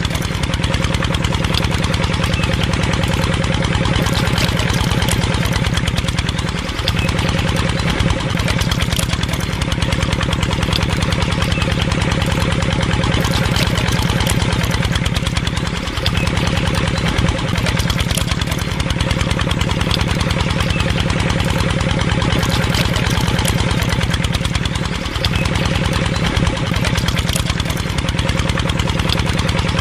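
Small engine running steadily at idle with a fast, even rattle of firing strokes. A brief dip with a short falling glide comes about every nine seconds.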